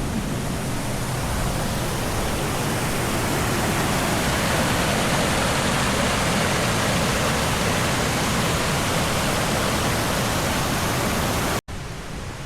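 Steady rush of stream water over a waterfall cascade. It cuts off abruptly about a second before the end and comes back quieter.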